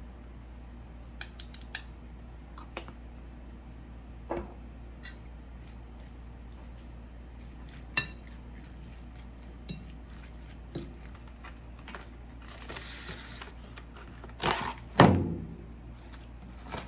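Kitchen utensils and dishes clinking and knocking now and then during food preparation, with a short stretch of rustling noise and one louder clunk near the end.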